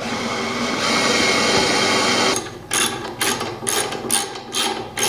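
Mechanical tool noise: a steady whirring for about two and a half seconds, then stops and gives way to a run of short clicking strokes, about three a second.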